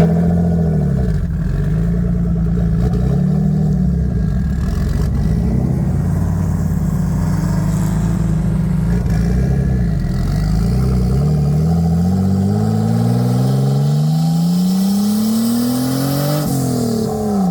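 Car engine driving on the road, revving up and easing off several times, then pulling through one long steady climb in pitch with an upshift near the end.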